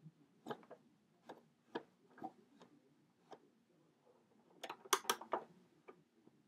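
Scattered plastic clicks and knocks as a Mach 5 brush roll is handled and fitted into a Hoover WindTunnel's floor nozzle, with a louder quick run of rattling clicks about five seconds in.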